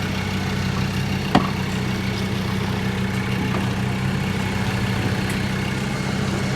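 Land Rover Discovery engine idling steadily, still running though the vehicle has lost all drive. A single sharp knock comes about a second in.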